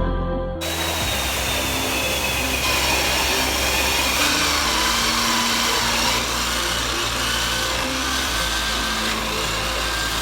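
A handheld electric power tool cutting or working wood, its motor whine wavering as the load changes; it starts abruptly about half a second in.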